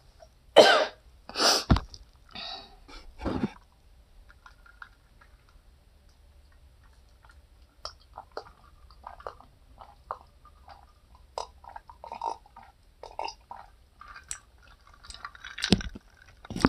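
Close-up eating sounds: chewing with small wet clicks and smacks. There are a few louder sharp bursts in the first four seconds and another near the end.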